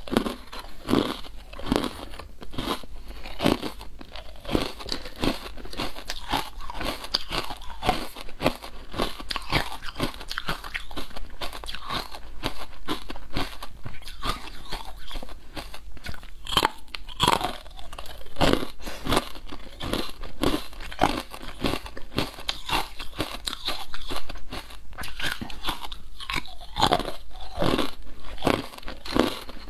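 Close-miked biting and chewing of crunchy, translucent pink sweets shaped like lotus-root slices, with sharp crunches coming irregularly, a few per second.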